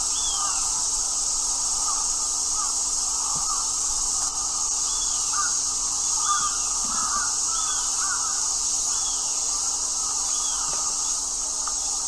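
Birds calling: a short, arched high note repeated about every second and a half, with scattered lower cawing calls among it, over a steady high hiss.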